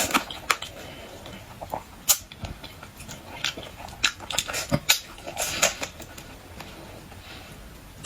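Close-up eating of a boiled swimming crab: irregular sharp clicks and cracks of shell, with chewing in between.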